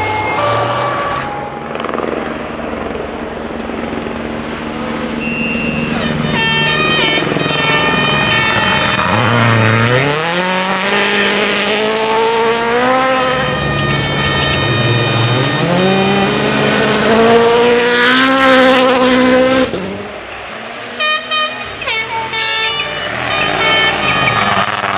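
Rally car engine revving hard, its pitch climbing and then dropping at each gear change several times over. About 20 seconds in it drops off and cuts in and out briefly before pulling up in pitch again near the end.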